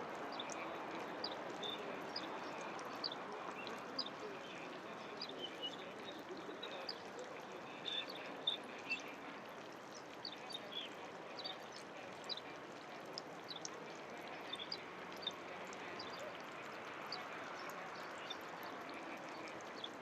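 Birds chirping, with many short high calls scattered throughout, over a steady background hiss.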